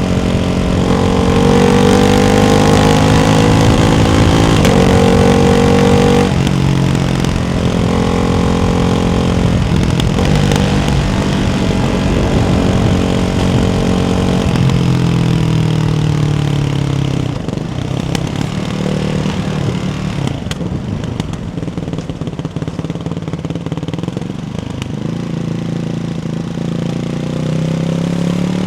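Ducati Hypermotard 698 Mono's single-cylinder engine through a baffled Termignoni exhaust, pulling up through the revs with pitch drops at the shifts. It falls away onto a quieter, lower-revving stretch of overrun midway, then picks up again near the end.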